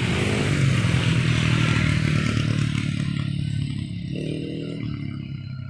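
Road traffic: a motor vehicle's engine running close by with tyre and road noise, fading away over the last couple of seconds.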